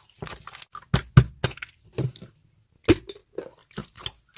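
Slime being squeezed and poked by hand, giving a run of irregular sharp clicks and pops.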